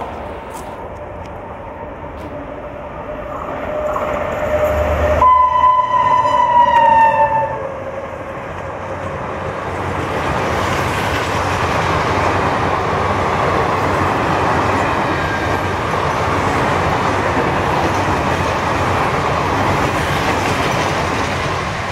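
WAP-7 electric locomotive passing at speed. It sounds one long horn blast about five seconds in, and the pitch drops slightly as the blast ends. Then its train of coaches rolls past with steady wheel and rail noise.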